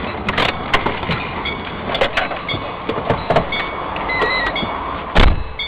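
Vehicle running noise with repeated knocks and rattles, short electronic beeps, and one loud bang about five seconds in.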